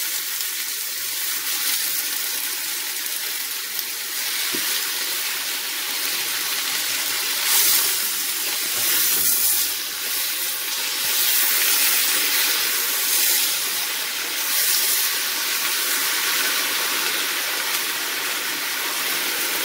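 Fresh spinach sizzling in hot olive oil in a stainless steel pot as it wilts and is stirred with a wooden spoon: a steady hiss that grows louder a few times.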